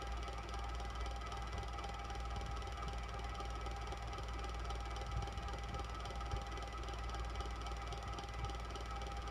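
Electric fan running steadily, a constant whir with a low hum and a faint steady tone over it.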